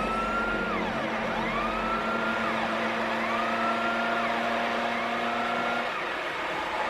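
Police siren wailing in repeated rising-and-falling cycles, about one every one and a half to two seconds, over the noise of car engines during a chase.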